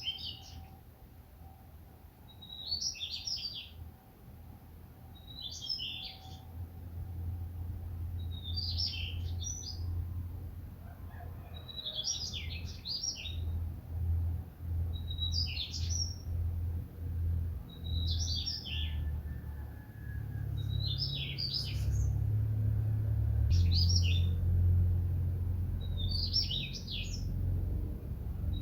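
A songbird singing the same short, chirpy phrase over and over, about once every three seconds, over a low rumble that grows louder in the second half.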